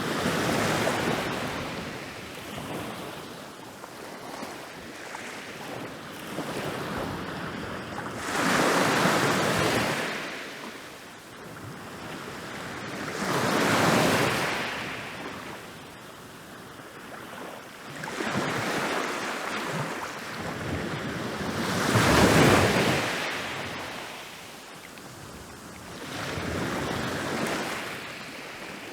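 Ocean waves rolling in and breaking on a beach, a swell of surf every four to five seconds that rises and fades away. The biggest crash comes about three-quarters of the way through.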